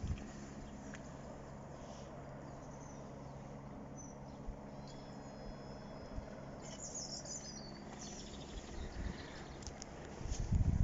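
Quiet outdoor ambience with small birds chirping, loudest a little past the middle, over a faint steady low hum. A low rumble comes in near the end.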